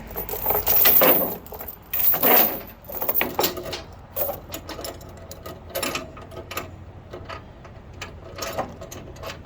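Metal tie-down chain rattling and clinking as it is handled, with a few loud clattering bursts in the first few seconds, then lighter scattered clinks.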